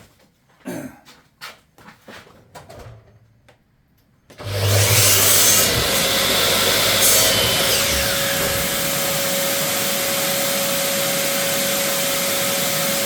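A few light knocks of handling, then about four seconds in an electric power tool switches on suddenly and runs loud and steady with a constant whine.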